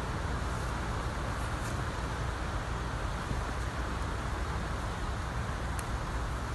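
Strong wind buffeting the phone's microphone: a steady low rumble with a hiss above it.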